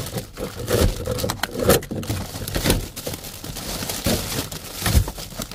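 Plastic-wrapped food packages and bags rustling, crinkling and knocking as they are rummaged through in a dumpster, in irregular bursts of handling noise.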